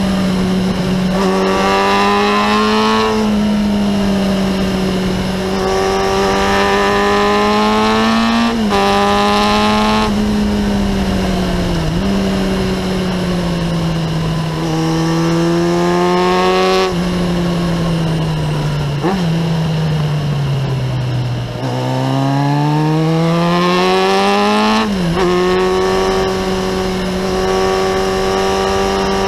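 Kawasaki ZX-9R's inline-four engine through a Remus exhaust, heard from the rider's seat, pulling hard and easing off through a run of bends. Its pitch climbs and falls again and again, with quick drops at the gear changes. It falls for a long stretch past the middle, then climbs steeply before another shift near the end, over a steady rush of wind and road noise.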